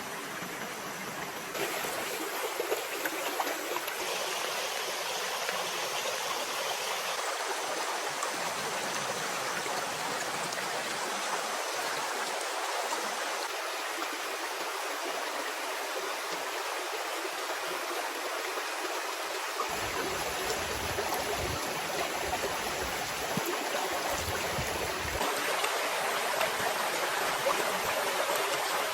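Steady rushing of running water, like a forest stream. A low rumble joins it for several seconds past the middle.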